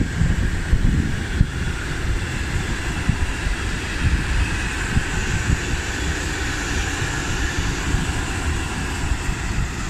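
A train running past with steady rail and wheel noise, with wind buffeting the microphone.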